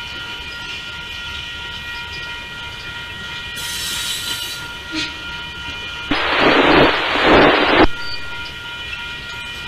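Freight train cars rolling past, with several steady high ringing tones. About six seconds in, a loud burst of hiss lasting nearly two seconds cuts across them.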